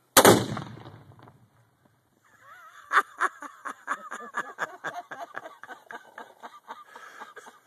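A .30-30 rifle shot setting off a homemade tannerite target: one sharp, loud blast just after the start, dying away over about a second and a half. About two seconds later a rapid run of short, pitched sounds starts, about four a second, and carries on to the end.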